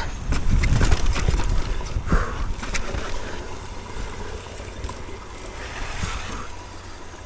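Wind rushing over the microphone as a mountain bike descends a steep, rough dirt trail, with the bike rattling and clicking over bumps and the tyres scraping slippery dirt. Loudest in the first couple of seconds, easing off toward the end.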